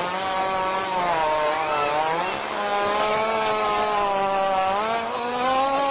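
A hippopotamus farting: one long, unbroken, buzzing fart with a clear pitch that wavers slowly and rises a little near the end.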